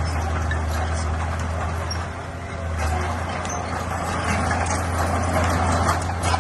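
Bulldozer's diesel engine running with a steady low hum. It drops off briefly about two seconds in, then builds up again toward the end.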